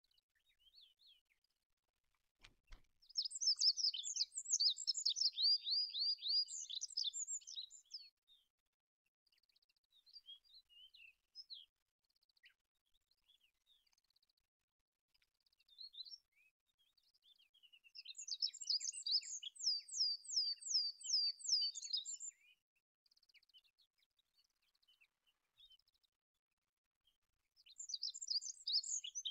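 Olive-backed pipit singing: three phrases of rapid, high, thin trilled notes, each several seconds long, with softer scattered notes in the pauses between. A faint click comes just before the first phrase.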